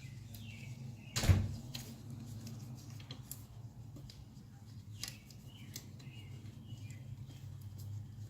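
Birds chirping over a steady low hum, with one short, loud burst of noise about a second in and a few fainter clicks later.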